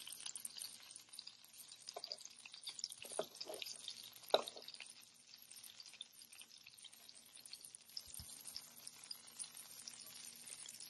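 Breaded chicken cutlets frying in shallow oil in a pan: a faint, crackling sizzle. A few sharp clicks of metal tongs against the pan as the pieces are flipped, the loudest about four seconds in.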